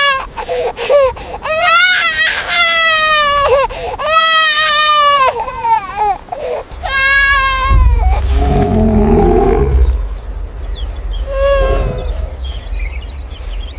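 A child wailing in several long, high-pitched cries, then a low growl lasting about two seconds, and a short whimpering cry near the end.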